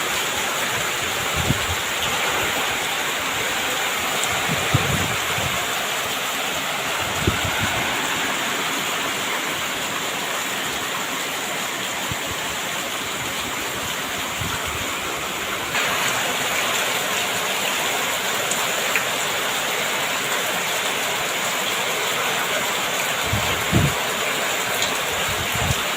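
Heavy rain pouring down steadily, a little louder from about sixteen seconds in, with a few dull low thumps.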